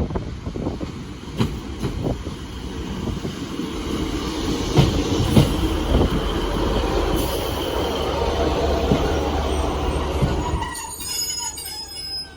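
Train passing close by, its wheels rattling and thumping over the rails, building up and then dropping away near the end. High-pitched wheel squeal sounds through the middle and near the end.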